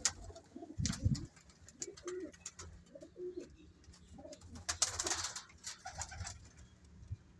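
Domestic pigeons cooing in a loft, a string of short low coos. A loud low thump comes about a second in, and a brief burst of rustling noise about five seconds in.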